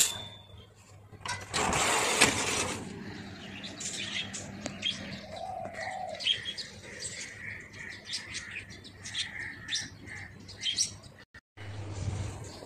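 Small birds chirping, many short high calls over several seconds, after a loud burst of rushing noise about two seconds in. Near the end the sound drops out briefly and gives way to a low steady hum.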